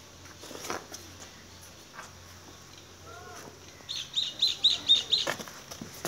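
A small bird calling a quick run of about six high, sharp chirps about four seconds in, the loudest sound here. A few short knocks come before it.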